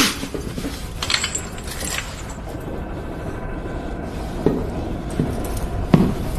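Film sound of a submarine's interior: a steady low hum with a few scattered metallic clinks and knocks.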